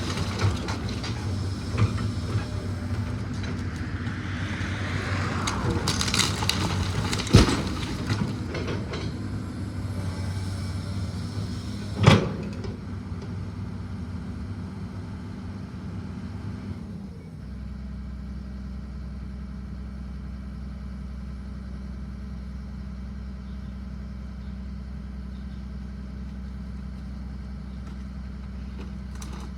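A heavy machine's engine running under load, with a rush of noise and two sharp knocks of metal or debris. About two-thirds of the way through it settles to a steady, lower idle.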